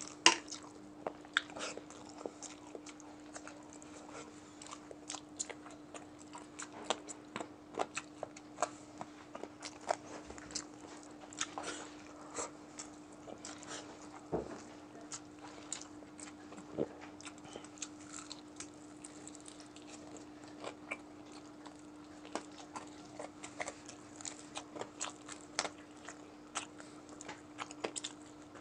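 Close-miked eating of chicken by hand: irregular wet chewing with many sharp mouth clicks and smacks, over a faint steady low hum.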